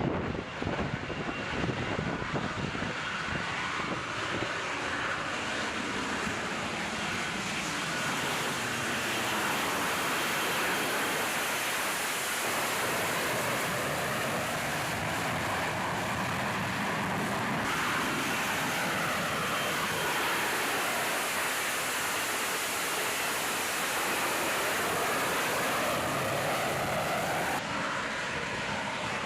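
F135 jet engine running loud: a dense, steady rush with slow drifts in pitch, its character changing abruptly about 18 and 28 seconds in.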